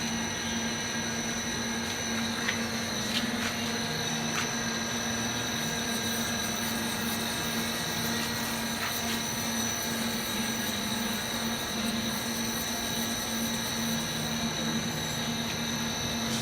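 CNC lathe running steadily: an even machine hum with a constant high whine, and a few faint clicks about three and four and a half seconds in.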